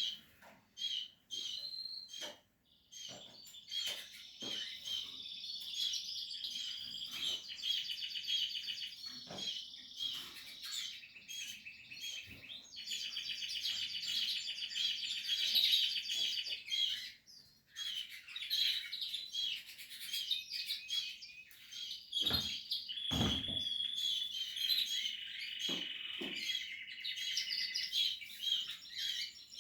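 Portuguese harlequin canaries chirping and trilling in long, fast runs high in pitch, broken by a few short pauses.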